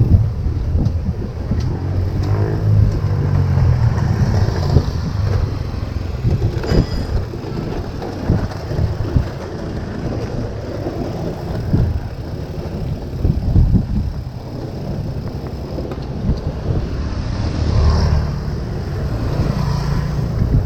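Riding sounds on a road: wind rumbling on the microphone, with motor vehicles passing twice, once near the start and once near the end.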